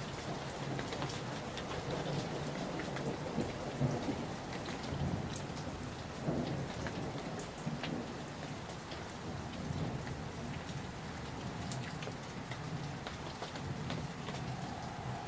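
Steady heavy rain with individual drops ticking on a surface, under the low rumble of distant thunder in a summer thunderstorm.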